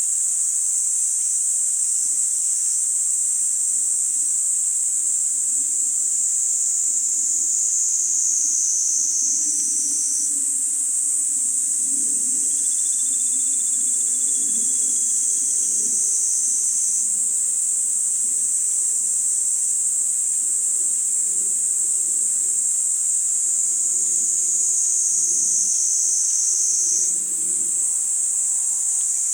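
Niinii-zemi cicadas (Platypleura kaempferi) singing as a continuous high, shrill buzz that shifts slightly in pitch a few times. A faint thin, steady tone sits below it for a few seconds mid-way.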